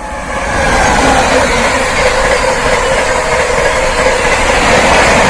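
Train hauled by an Indian Railways three-phase electric locomotive passing close at high speed. A loud, steady rush of wheels and air builds over the first second and holds.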